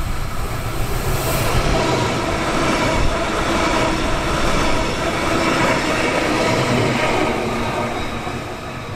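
Stadler Flirt electric multiple unit passing close at speed: steady noise of the wheels on the rails and the rush of air, easing off near the end.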